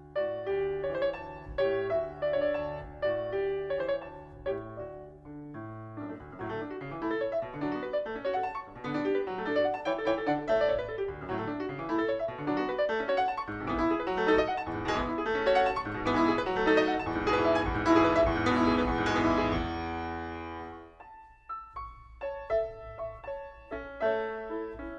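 Background piano music: a piece that grows fuller and louder through the middle, falls almost silent about twenty seconds in, then resumes with sparser notes.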